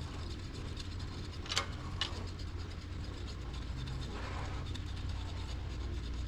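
Light mechanical clicks and a soft scrape as the new impeller is pressed onto the water-pump shaft, over a steady low hum. Two sharper clicks come about one and a half and two seconds in.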